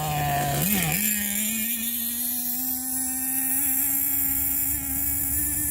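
Nitro engine of an RC10GT truck with a stinger exhaust pipe, running at light throttle. It blips briefly about half a second in, then holds a steady buzz that climbs slowly in pitch.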